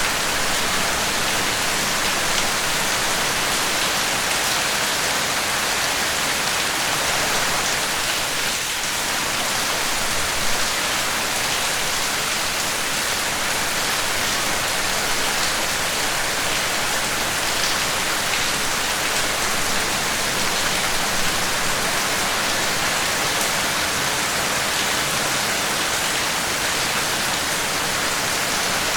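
Steady, dense rainfall: a constant hiss of rain with no breaks.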